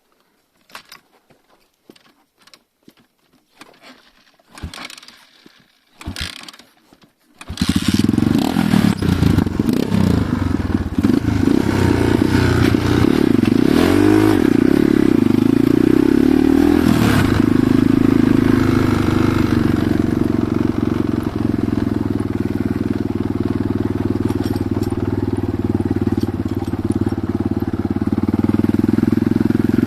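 A few faint clicks and rustles, then an enduro motorcycle engine starts abruptly about seven seconds in, revs unevenly for several seconds and settles into steady running.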